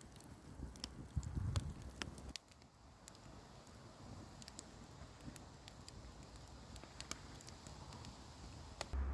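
Wood fire crackling with irregular sharp pops and snaps, over a faint low rumble in the first two seconds or so.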